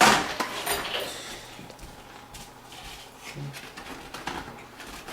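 Packaging of a boxed motherboard being handled: a loud sliding scrape at the start, then light rustles and small knocks.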